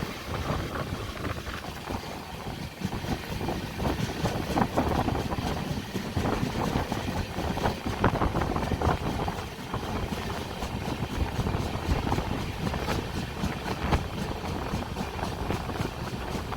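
Express passenger train running on the rails: a steady low rumble of wheels with frequent light clicks and rattles, and wind rushing past.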